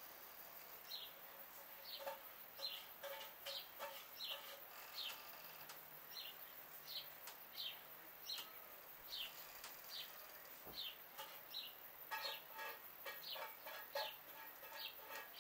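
A small bird chirping over and over, about one to two short chirps a second. In the last few seconds, hens join in with rapid clucking.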